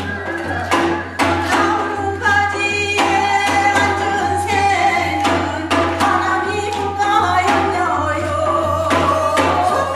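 Gyeonggi folk singing in the fast hwimori japga style, with voices in quick, wavering lines over regular drum strokes. A steady low hum runs underneath.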